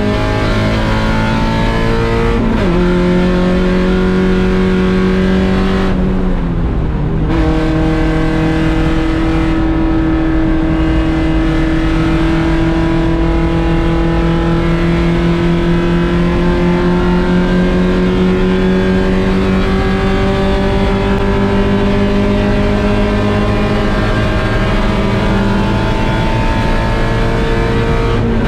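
Mazda Miata 1.6-litre four-cylinder race engine under hard throttle: an upshift drops the revs a few seconds in, and the engine briefly lifts off around six seconds in. It then pulls in one gear with the revs climbing slowly and steadily for a long stretch, until another drop in pitch near the end.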